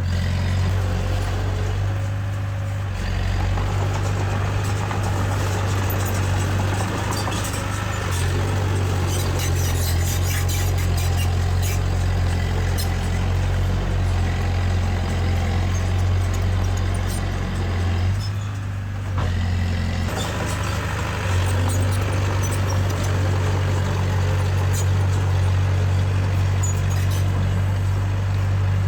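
Diesel engine of a small Komatsu D20A crawler bulldozer running steadily under load, its pitch and load shifting a few times with a brief drop just before two-thirds of the way through. Metallic clanking and clatter comes through most thickly about a third of the way in.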